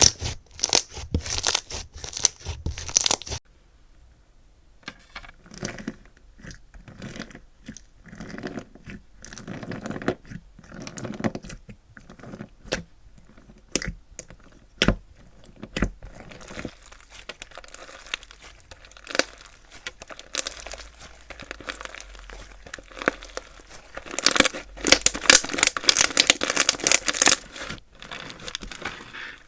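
Slime being worked by hand, giving crunchy, crackling pops and tearing sounds. The crackling is densest and loudest for a few seconds near the end.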